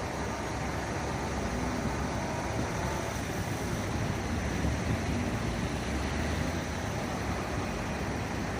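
Steady engine rumble under an even hiss.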